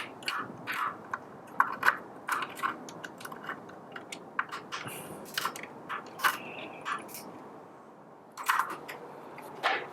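Screwdriver tightening the two motor screws of a coffee grinder: a run of short, sharp, irregular clicks, with a louder cluster near the end.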